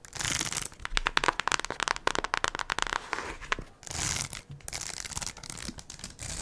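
Close-up crinkling and crackling of handled material: a dense run of rapid, irregular small clicks with a few brief swells.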